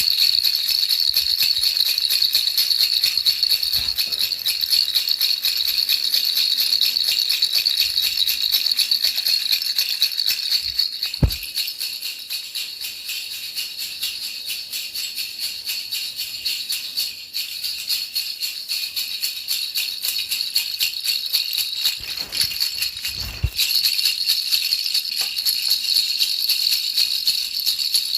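A baby rattle shaken fast and without pause, a dense, high jingling rattle. It softens for a while in the middle, with a brief low thump about 11 seconds in and another near 23 seconds.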